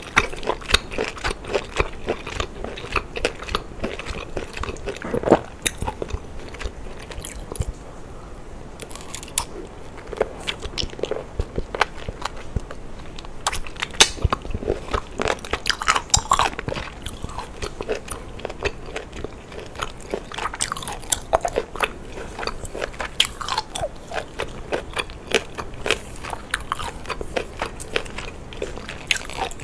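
Close-miked eating of a boiled octopus tentacle: biting and chewing with many irregular sharp clicks and smacks.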